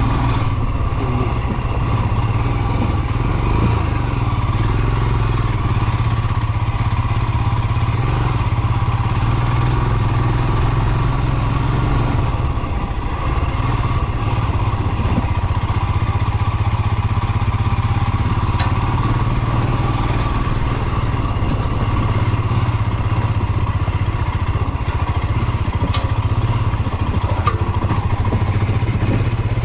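Royal Enfield Himalayan's 411 cc air-cooled single-cylinder engine running steadily while the bike is ridden, with a couple of faint ticks.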